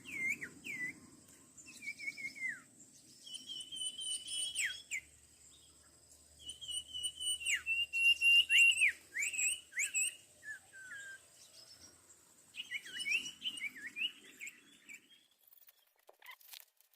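Sirtu (cipoh) birds calling in bursts of quick, high, down-sweeping chirps and short chattering trills, with a brief lull midway. A few sharp clicks come near the end.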